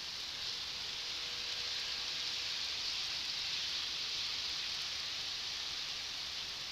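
Model train running on its track: a steady high rushing hiss that swells gently as it passes, peaking about halfway through and easing off near the end.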